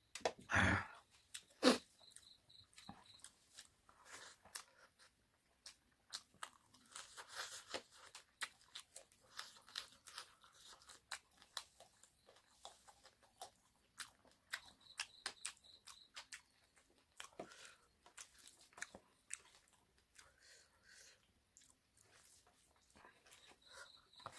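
Close-up chewing of bone-in local chicken curry and rice eaten by hand: many small wet mouth clicks and crunches throughout. Near the start comes a louder rush of noise, then a single sharp knock about two seconds in.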